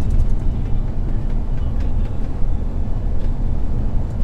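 MAN truck's diesel engine running, a steady low rumble with light ticks and rattles over it.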